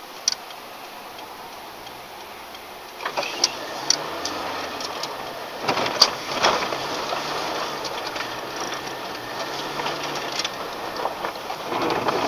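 A car driving, heard from inside: a low steady engine hum and road noise, with scattered sharp clicks and knocks that come more often and get louder in the second half.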